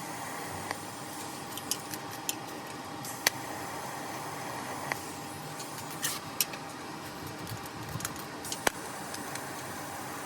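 Steady mechanical hum and hiss with scattered short, sharp metallic clicks and taps; the loudest are about three seconds in and near the end.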